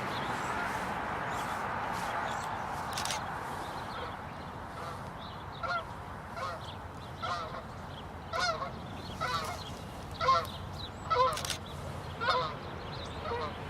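A rushing noise fades over the first few seconds, then geese call repeatedly with short honks, roughly one a second.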